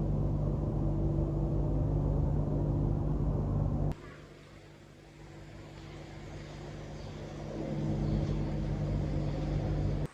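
A motor running with a steady low hum. It cuts off abruptly about four seconds in, comes back gradually and runs again until it cuts off at the end.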